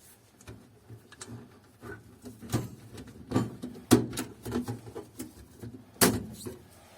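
Irregular plastic clicks and knocks from handling a laser printer drum unit and its removed charger unit, with a few sharper knocks in the middle and near the end.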